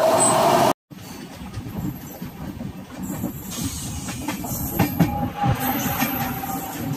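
Under a second of loud rushing noise that cuts off abruptly, then a moving train's rumble of steel wheels on the rails with scattered clacks and a faint wheel squeal, heard from aboard the train.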